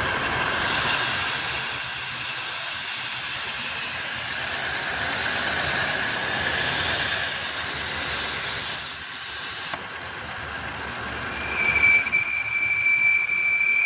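Running 2015 Audi A8 L engine with a steady high-pitched hissing whistle from under the bonnet; about ten seconds in the hiss briefly drops, and near the end a clear, steady high whistle comes in. This is the whistling fault that the uploader traces to the crankcase oil separator (PCV).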